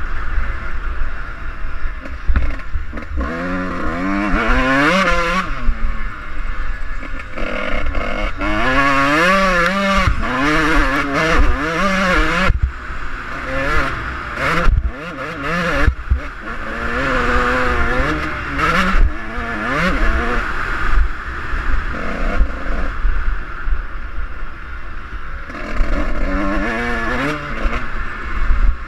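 A Suzuki RM125's two-stroke single-cylinder engine ridden hard on a dirt track, revving up and falling back again and again through gears, over a constant low rumble with frequent knocks.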